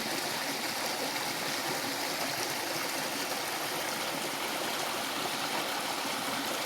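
Stream water running steadily, a constant even rush with no breaks.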